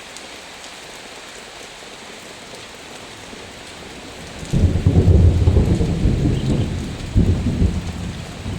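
Heavy rain falling steadily, with a loud low rumble of thunder rolling in about halfway through and surging again near the end.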